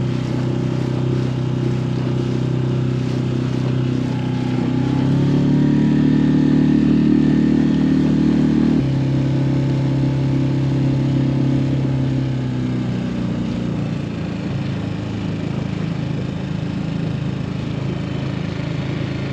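Dinghy outboard motor running under way. It is opened up about five seconds in, throttled back suddenly near nine seconds, and eased down again around thirteen seconds.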